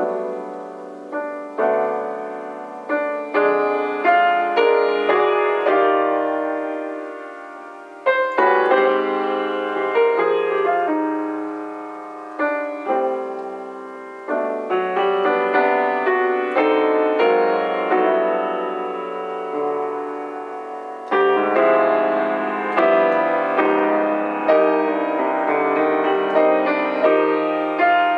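Solo piano playing a slow jazz ballad in full chords, each chord struck and left to ring and fade. The playing grows louder about eight seconds in and again past the twenty-second mark.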